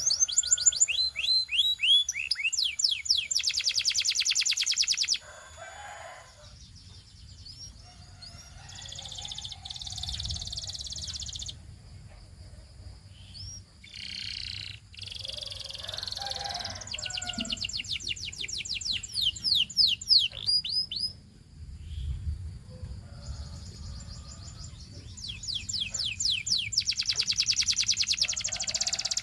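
Domestic canary singing in phrases of very fast trills and quick falling whistled notes, with quieter pauses between phrases.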